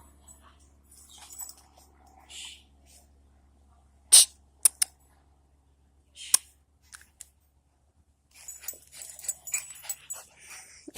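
A pet dog with a grabbed hamburger making scattered soft sounds, with a few sharp clicks about four seconds in and again just past six seconds.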